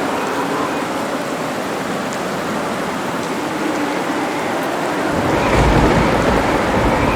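Steady heavy rain, with a low rumble of thunder rolling in suddenly about five seconds in.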